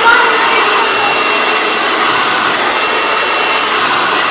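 Hair dryer running steadily, blowing air into an inflatable truck-bed pool in place of a pump, with a faint thin whine over the even rush of air.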